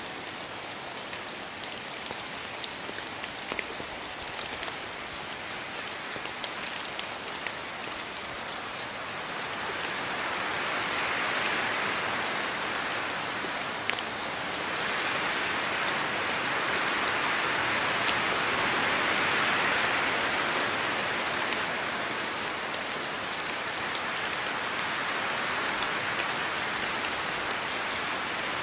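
Steady rain falling on surfaces, with individual drops ticking sharply through the hiss. The downpour swells heavier in waves through the middle, then eases a little near the end.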